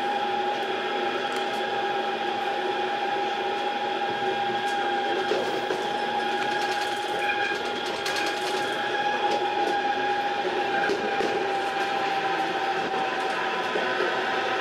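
Running noise inside a railcar's driver's cab as the train moves along the track: a steady hum with a constant whine, and clicks from the wheels passing over points and rail joints in the first half.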